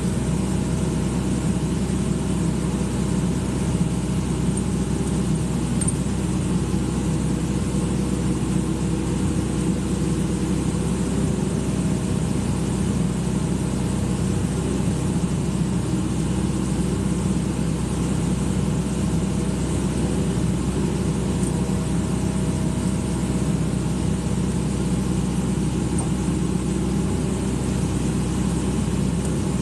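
Excavator's diesel engine running steadily at an even speed, with no revving or breaks.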